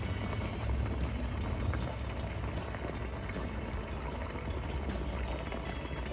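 Spring water pouring in a steady stream, filling a container.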